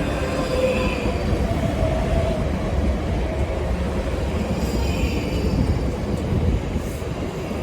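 Passenger train running on the track: a steady rumble of wheels on rails, with faint high whines coming and going.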